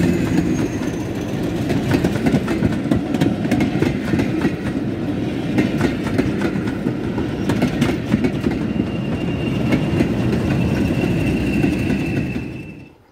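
Passenger coaches rolling past close by, their wheels clattering over rail joints over a steady rumble, with the Class 50 diesel locomotive's engine note fading in the first half-second. A thin steady high whine joins in for the last few seconds, then the sound falls away quickly at the very end.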